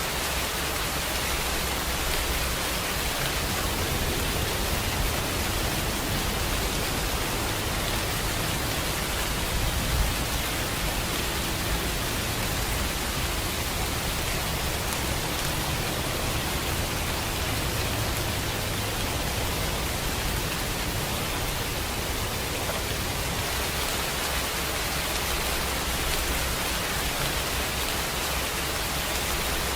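Steady rainfall, an even hiss of rain falling on surfaces with a low rumble underneath, and one slightly louder drop or tap about ten seconds in.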